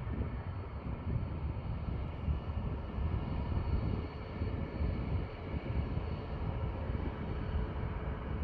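Jet airliner engines running, a steady low rumble with a faint whine above it.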